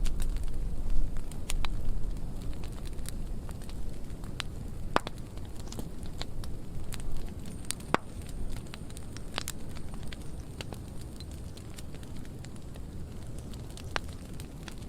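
Burn pile of dry pruning wood burning: a steady low rush of flame with scattered sharp crackles and pops, the loudest pops about five and eight seconds in.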